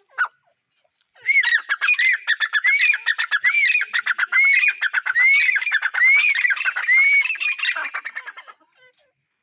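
Grey francolin calling: a loud bout of repeated arched, rising-and-falling whistled notes, about one a second, over rapid harsh chattering. It starts about a second in and fades out about a second before the end.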